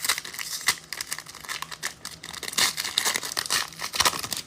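Foil wrapper of a trading-card pack crinkling as it is torn open, a steady run of irregular crackles.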